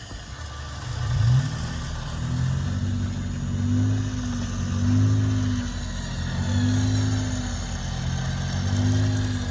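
Off-road truck engine revving up and down in repeated surges, typical of a 4x4 working to get free of deep snow.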